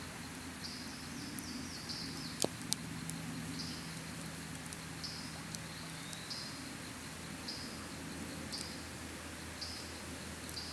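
Campfire crackling, with two sharp pops about two and a half seconds in, over short high chirps that repeat about once a second. A faint, steady low drone from an airplane passing over runs beneath.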